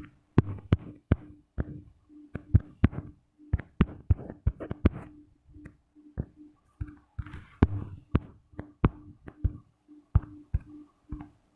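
Irregular sharp taps on a touchscreen, a few a second, picked up close to the microphone while drawing.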